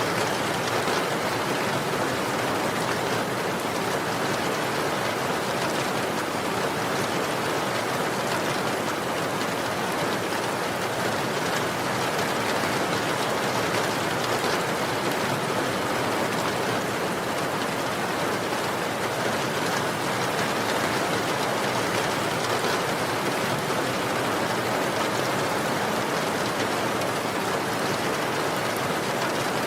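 Steady rain falling, an even hiss with fine drops pattering on a surface.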